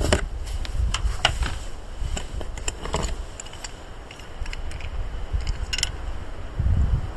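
Camping gear being handled while a car-side tarp is rigged: scattered clicks, knocks and a metallic clink near the end, over a low rumble of wind on the microphone.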